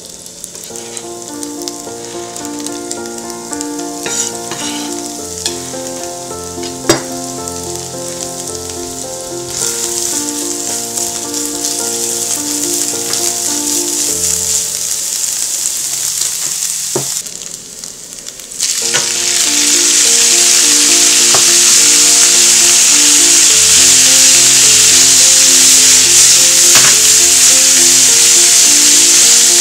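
Minced garlic, ginger and green onion sizzling in hot oil in a frying pan and stirred with a silicone spatula, with background music throughout and one sharp tap about a quarter of the way in. Past the middle, after a brief dip, the sizzle turns much louder and steadier as pan-fried tofu cubes are stirred through the aromatics.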